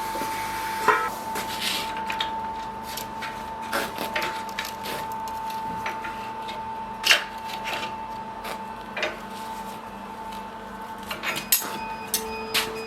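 Scattered, irregular knocks and clinks of tools and metal being handled at a knifemaking workbench, a few louder than the rest, over a steady high-pitched hum.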